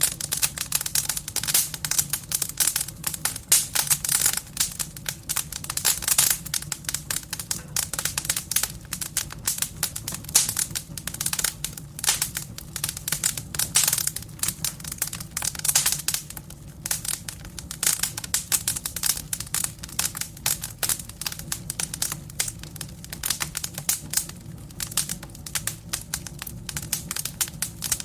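Burning firewood in a fireplace crackling and popping, with dense, irregular snaps throughout and a low steady hum underneath.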